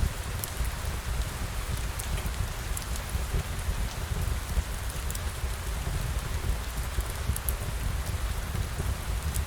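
Steady rain falling, an even hiss with a low rumble underneath and scattered sharp ticks of individual drops.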